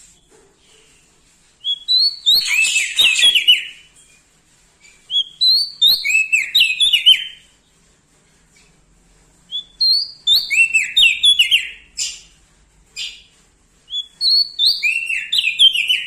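Prenjak daun singing the same short song phrase four times, about every four seconds, each a quick run of notes stepping down in pitch. A few short sharp calls come between the third and fourth phrases.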